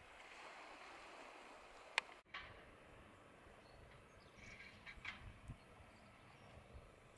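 Near silence with a faint steady hiss. A sharp click about two seconds in is followed by a split-second dropout. A little after halfway come a few faint, short, high chirps of distant birds.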